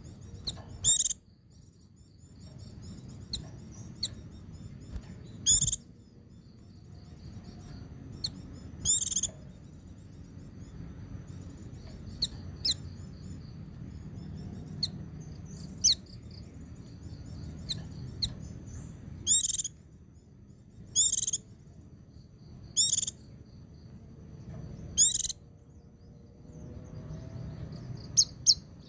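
Pleci (white-eye) singing: a soft, high twittering song runs under sharp, loud calls repeated every one to three seconds, some of them doubled. A low steady rumble of background noise lies underneath.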